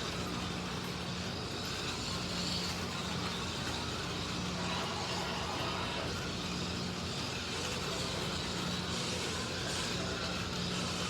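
Electric slot cars (MR Slotcar Cunningham Corvettes and a Scalextric Mercedes 300 SLR) lapping a track: a steady whir of small electric motors and guides on the track, with a faint whine that rises and falls in pitch as the cars accelerate and brake.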